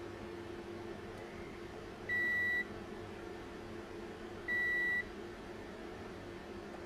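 Two short electronic beeps, each about half a second long and at the same high pitch, roughly two and a half seconds apart, over a steady low hum.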